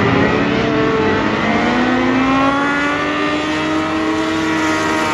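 Race car engines running hard on track: several engine notes overlap, their pitch rising and falling as the cars accelerate and lift.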